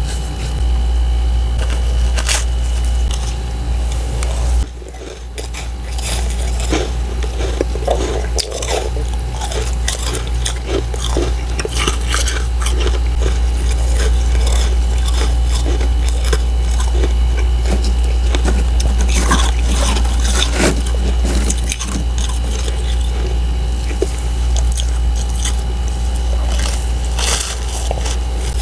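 Close-up crunching of frost ice: someone biting and chewing thin sheets of powdery freezer frost, in irregular crisp crunches and crackles, over a steady low hum.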